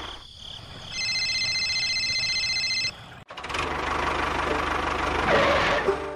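Tractor engine running, dropping away briefly about three seconds in and then running on. For about two seconds before the drop, a high, evenly pulsing beep sounds over it.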